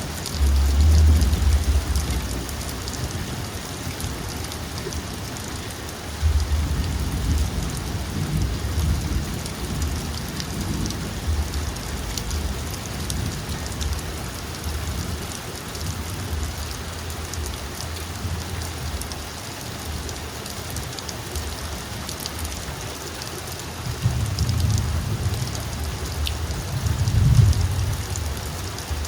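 Heavy rain falling steadily during a thunderstorm, with deep rumbles of thunder about a second in, from about six seconds in, and again near the end.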